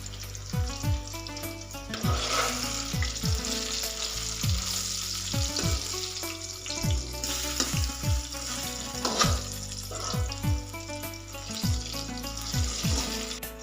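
Food frying in hot oil, a steady sizzle that starts about two seconds in, over background music with a repeating bass that glides down in pitch.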